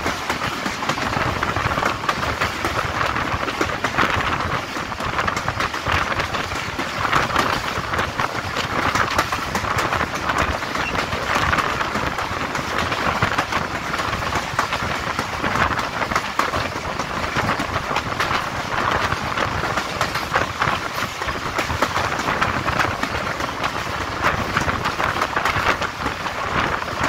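Passenger coaches of a diesel express train running at speed, heard from an open coach door: a steady rush of steel wheels on the rails with a dense clatter of clicks, swelling and easing every second or so.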